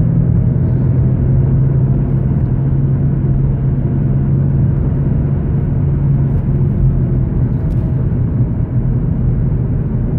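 Steady engine hum and road noise heard from inside a moving car's cabin.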